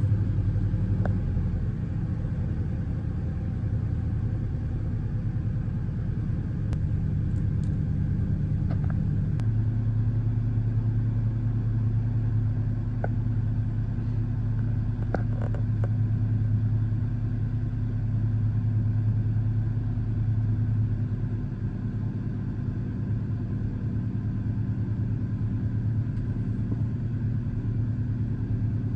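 1996 Toyota Tacoma engine idling steadily just after a cold start. Its note shifts once, about nine seconds in, then holds steady.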